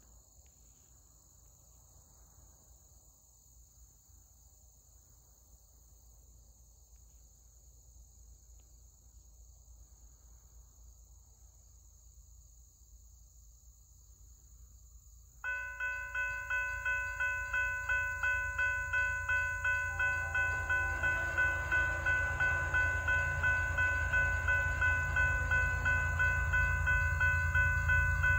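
Approaching Canadian Pacific freight train: a low rumble that grows steadily louder, with insects buzzing at first. About halfway through, a road-crossing warning bell starts ringing in quick, regular strikes, a little under two a second, and keeps on as the train's rumble builds.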